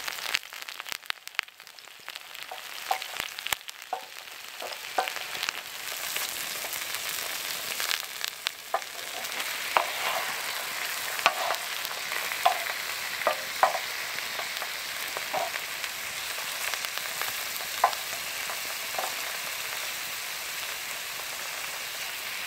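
Sausages, black pudding, tomatoes and mushrooms sizzling in oil on a cast iron griddle, the sizzle getting louder a few seconds in. A wooden spatula scrapes and taps on the griddle as the food is turned and moved.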